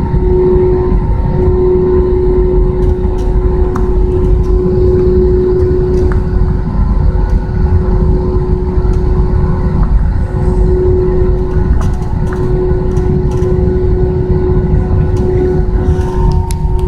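Airbus A320 cabin noise on the ground before takeoff: a loud, steady low rumble with a constant hum and a few faint clicks.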